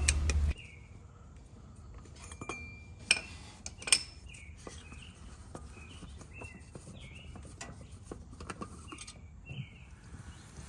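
A few light metallic clinks of tools and metal parts, the two sharpest about three and four seconds in, with birds chirping now and then in the background.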